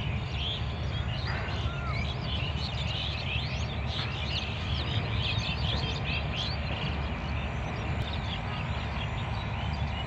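Many small birds chirping and twittering in quick, overlapping short calls, over a steady low rumble.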